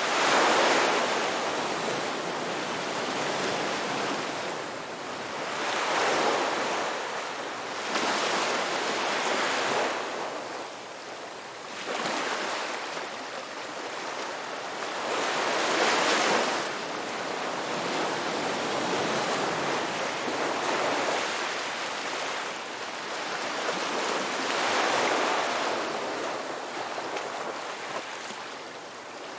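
Ocean waves breaking and washing ashore, the surf swelling and falling away every few seconds.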